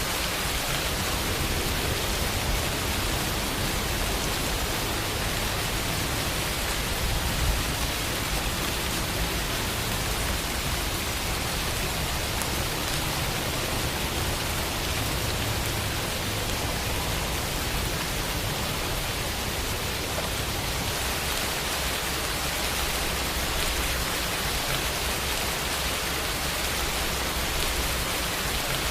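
Steady rain falling, an even hiss of countless drops with no other sounds.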